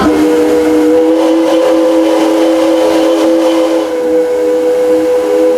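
Chime steam whistle of a 1901 steam locomotive blowing one long, steady blast of several notes sounding together, over the hiss and rumble of the moving train.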